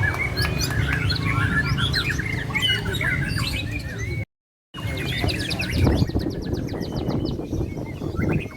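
Several caged white-rumped shamas (murai batu) singing against each other in a songbird contest, with many overlapping chirps and whistles. The sound cuts out briefly about halfway, then a rapid high trill of evenly spaced notes follows, over a steady low rumble.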